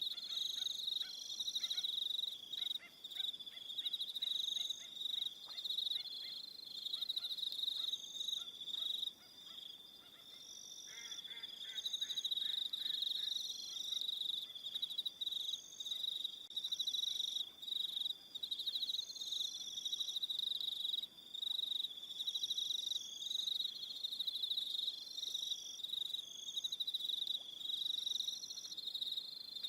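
Evening chorus of crickets: a continuous high trill, overlaid by higher-pitched chirping that comes in bouts of about a second. A lower, rapid pulsing call joins during the first several seconds and again for a couple of seconds near the middle.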